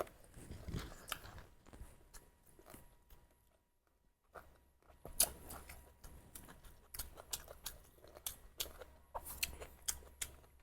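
Close-up chewing of spicy duck curry, with soft wet mouth sounds and sharp little clicks and crunches. There is a brief pause in the chewing about four seconds in.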